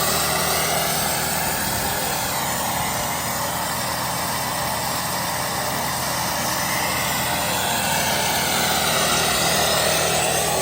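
2001 Dodge Ram 2500's Cummins 5.9-litre inline-six turbo-diesel running steadily, with a higher whine that wavers up and down a couple of seconds in and again near the end.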